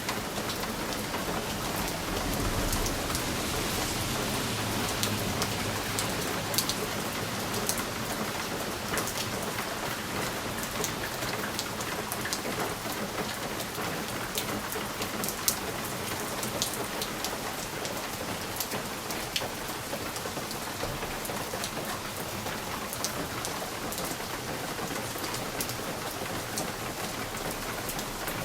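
Steady rain on a window, with individual drops ticking against the glass. A low rumble swells briefly a few seconds in.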